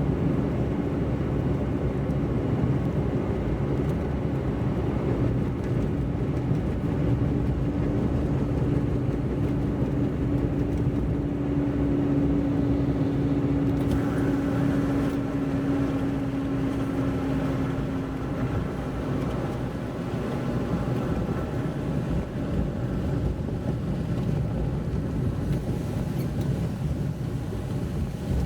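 Car driving on a wet road: steady low road and engine noise. A humming tone holds and creeps slightly up in pitch, then fades out about eighteen seconds in.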